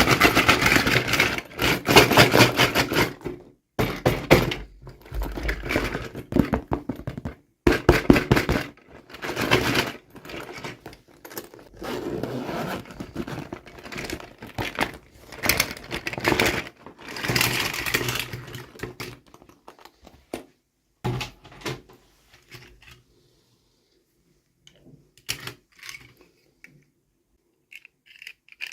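Hands unwrapping and handling small toy packaging: dense crinkling, scraping and clicking, thinning about two-thirds of the way through to a few scattered taps and clicks.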